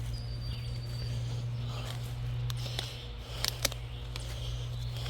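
Footsteps moving through forest brush and deadfall, with a few sharp twig snaps and cracks about two and a half to four seconds in. A steady low rumble runs underneath, and a brief thin high whistle sounds near the start.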